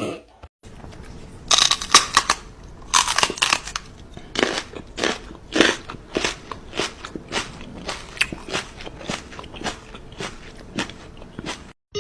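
A dog chewing something hard and crunchy, bite after bite: a few loud crunches at first, then a steady run of about two or three crunches a second.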